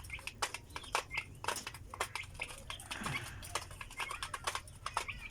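Young chicks and guinea fowl keets peeping in short high chirps, amid frequent sharp ticks and knocks.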